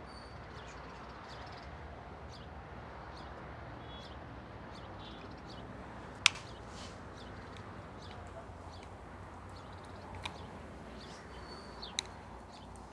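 Faint bird chirps over a low, steady room hum, with a sharp click about six seconds in and another near the end.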